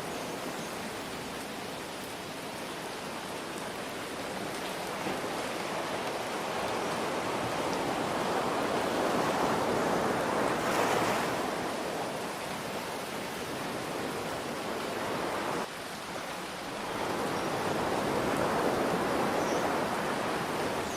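Ocean surf washing in and drawing back in slow swells, one cresting about halfway and another near the end, over a steady hiss of light rain.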